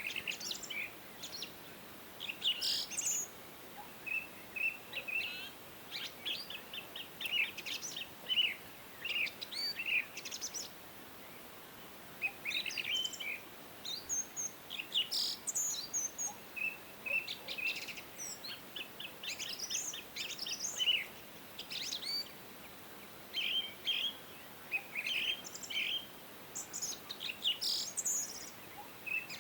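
Songbirds singing and chirping: a steady stream of quick, high chirps and short trills over a faint, even background hiss.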